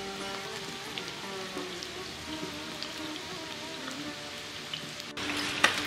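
Oil crackling and sizzling under potatoes and corn frying in a cast-iron kazan, with soft background music. Near the end the sizzling grows louder.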